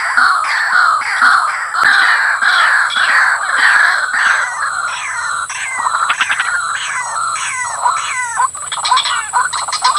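White-breasted waterhen (ruak) calling loudly: harsh, falling croaks repeated about twice a second, which after about six seconds break into quicker, bubbling, stuttering notes.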